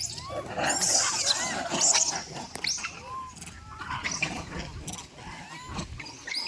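A monkey calling: a quick string of short, high squeaks and chirps that rise and fall in pitch, harsher and loudest in the first two seconds, with scattered clicks.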